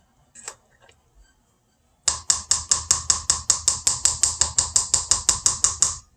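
Casserole ingredients being mixed by hand in a bowl: a quick, even run of scraping strokes, about five a second, starting about two seconds in and stopping after about four seconds.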